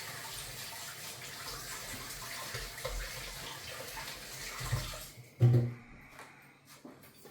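Kitchen tap running while hands are washed under it, shut off about five seconds in. A brief, louder sound follows just after.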